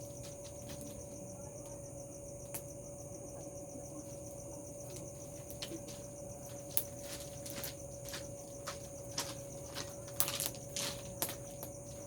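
Crickets chirring steadily over a constant faint tone, with sharp crackles and pops from the bonfire coming more often from about halfway through.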